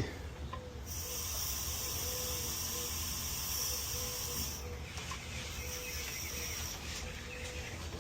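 Nitrogen hissing through the regulator and manifold hose as it pressurises a reinstalled condenser to about 250 psi for a leak test. The hiss starts about a second in, cuts off about four and a half seconds in, then comes back more faintly for a couple of seconds.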